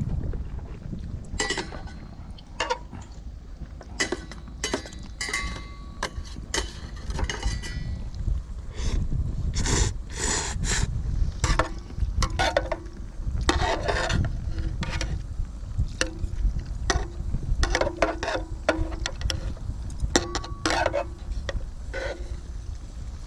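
Wind rumbling on the microphone, with repeated clinks, scrapes and knocks from handling cookware and food, a few of them ringing briefly like struck metal.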